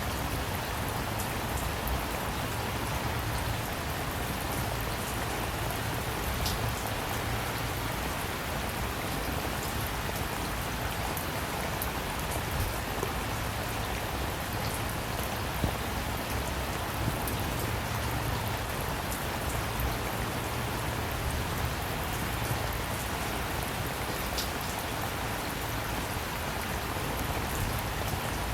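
Steady rain falling on a surface: an even hiss of rain with scattered individual drops ticking through it.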